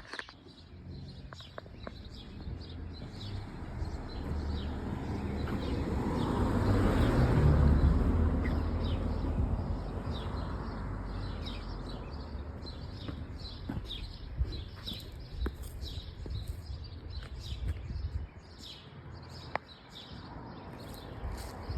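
Birds chirping repeatedly, while a vehicle's rumble swells to its loudest about a third of the way in and then fades away.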